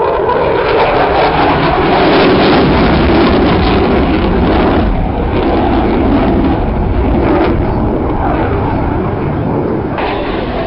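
Engine noise of an aircraft flying a display: a loud, dense roar that swells to its peak a couple of seconds in, then eases, with the higher part of the sound dropping away near the end.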